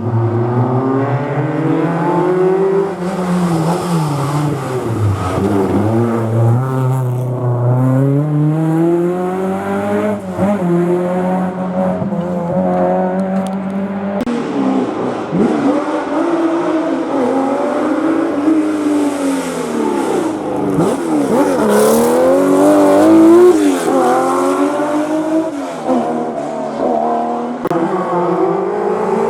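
Historic rally car engine working hard through a hairpin, loud, its revs climbing and dropping again and again as the driver brakes, changes gear and accelerates away.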